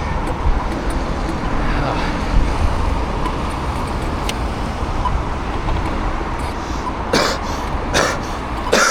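Steady rumble of wind and road noise while riding an e-bike through city traffic, with three short sharp sounds near the end.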